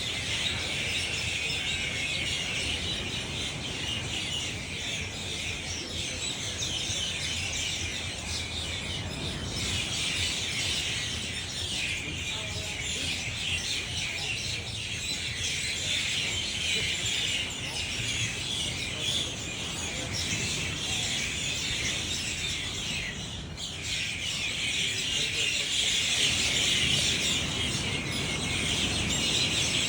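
Tropical outdoor nature ambience: a dense, steady high-pitched chorus with bird calls, swelling louder about a third of the way in and again near the end.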